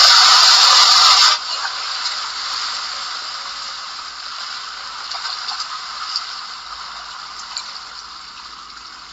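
Rushing water making a steady hiss. It drops suddenly in level about a second and a half in, then fades slowly.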